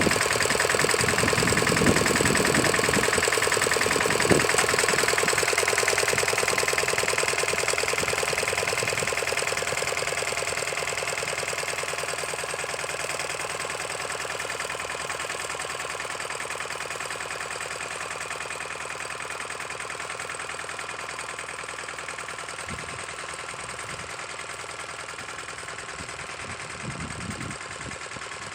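Lombardini diesel engine of a walking tractor (motoculteur) running steadily under load while ploughing, with an even rapid firing rhythm. It grows gradually fainter over most of the stretch, as the machine works away.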